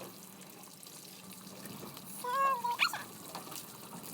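Water running and splashing as a car is washed, over a low steady hum. About two seconds in there is a short high-pitched call, held briefly and then sweeping quickly up and down.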